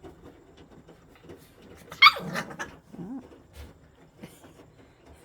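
Maltipoo puppy giving one sharp, high yip about two seconds in that falls steeply in pitch, followed about a second later by a shorter, lower call. Faint scattered rustles and clicks run underneath.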